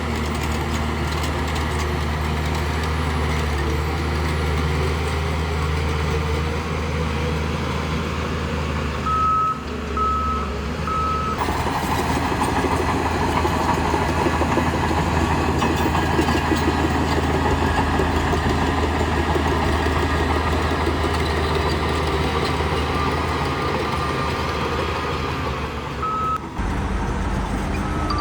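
Diesel engines of heavy earthmoving machinery running steadily. A reversing alarm beeps three times about nine seconds in and once more near the end.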